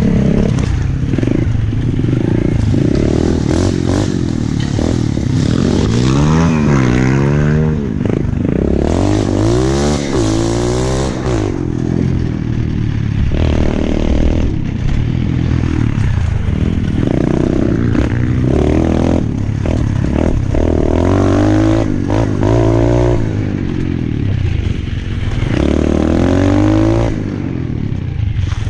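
Pit bike engine being ridden hard on a dirt trail, its pitch rising and falling over and over with throttle and gear changes.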